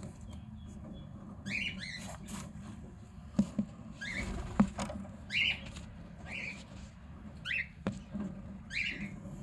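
Cockatiel giving a series of short, scratchy chirps, about one every second, with a few sharp knocks in between.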